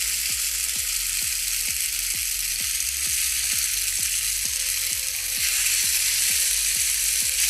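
Cooked spaghetti sizzling in hot oil in a frying pan, a steady frying hiss, as it is moved around the pan with tongs. Background music with a steady beat of about three thuds a second runs underneath.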